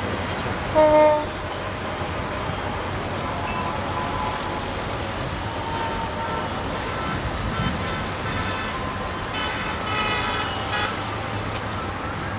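Steady rumble of a passenger train running along the track, with one short, loud horn toot about a second in.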